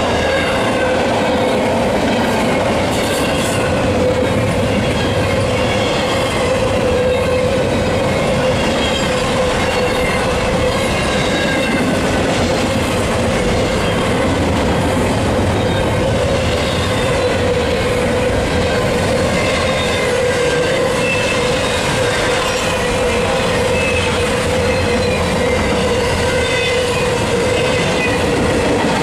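Double-stack intermodal freight train rolling past at speed: a steady, loud rumble of steel wheels on rail with the clickety-clack of well-car trucks, and short wheel squeals now and then.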